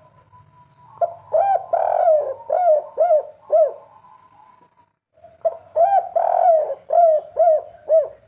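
Spotted dove (derkuku) cooing its 'kuk 3' song: two phrases of low hooting coos, each with two short notes, a longer drawn-out note, then three short 'kuk' notes. The first phrase starts about a second in, the second about five seconds in.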